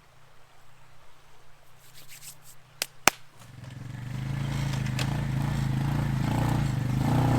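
Two sharp clicks, then a quad bike's engine comes in about three and a half seconds in and swells to a steady running note.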